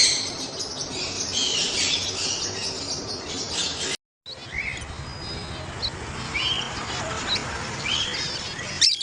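Pet birds chirping and calling over one another. The calls are dense at first; the sound cuts out briefly about four seconds in, then sparser short rising chirps continue.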